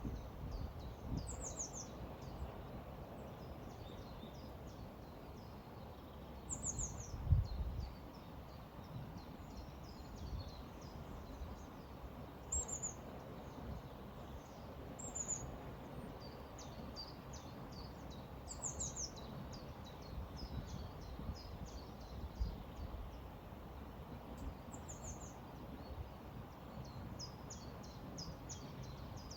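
River water flowing as a steady rush, with small birds chirping: short high notes that slide downward, repeated every few seconds over fainter twittering. A brief low thud comes about seven seconds in.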